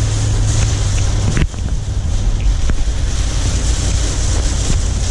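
A vehicle driving, with its engine and road rumble under steady wind noise on the microphone. A low engine hum drops away about a second and a half in, and a lower rumble carries on.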